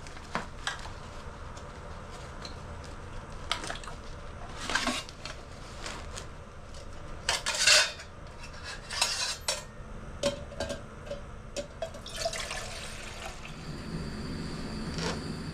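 Metal utensil clinking and scraping in a cooking pot while instant ramen noodles are stirred in liquid, in a run of short knocks and scrapes with a louder rustling burst midway. A steady low hum comes in near the end.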